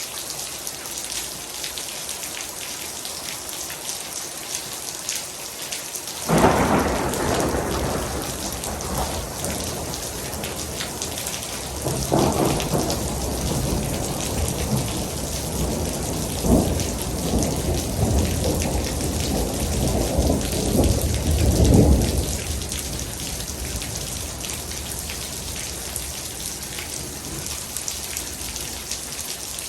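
Heavy rain falling steadily, with thunder: a sudden loud clap about six seconds in, then a longer rolling rumble from about twelve seconds that swells to several peaks and dies away about ten seconds later.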